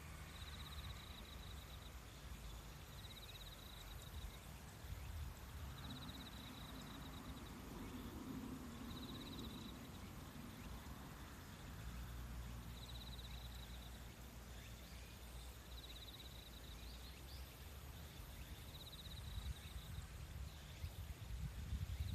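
Nature ambience: an insect's short, fast-pulsed high trills repeat about every two to three seconds over a faint low rumble.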